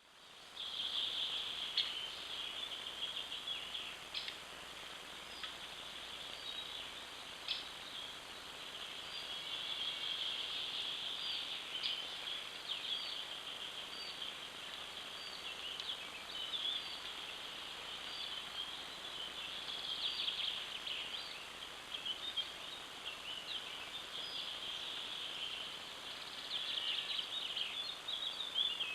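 Wild birds singing in a dense, continuous chorus of high chirps and short sharp notes, over a faint steady background hiss.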